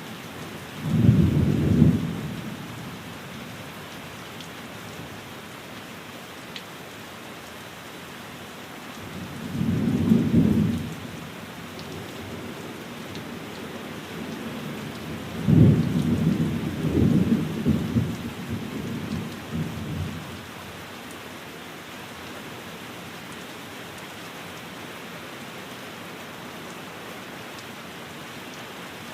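Steady rain falling on a window, with low rumbles of thunder: a short one about a second in, another around ten seconds in, and a longer rolling rumble from about fifteen to twenty seconds in.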